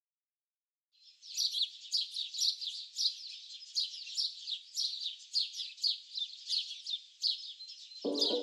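Songbirds chirping: a quick run of short, high, falling chirps, several a second, starting about a second in; music comes in near the end.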